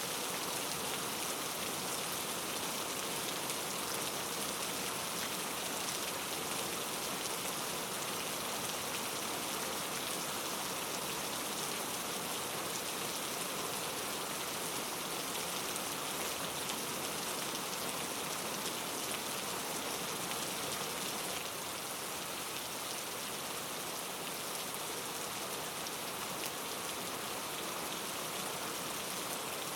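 Steady rain falling, an even hiss of dense drops, dropping slightly in level about two-thirds of the way through.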